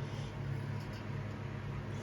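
Hampton Bay Landmark ceiling fan running: a steady low hum with an even airy hiss.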